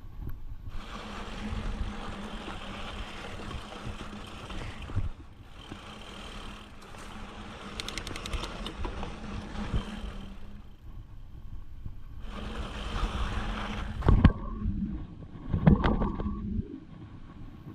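Mountain bike riding over rough trail, with wind and rolling rumble on the microphone. A buzzing hiss, typical of a rear freewheel hub while coasting, starts and stops in three long stretches. Two loud knocks come near the end.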